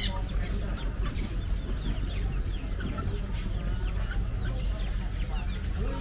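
Many caged birds chirping at once in a thick chorus of short, falling chirps, over a steady low rumble. A single sharp click comes at the very start.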